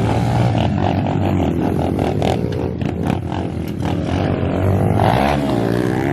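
Small four-stroke pit bike engine revving hard on track, its pitch rising and falling with throttle and gear changes, with a dip and climb in revs near the end.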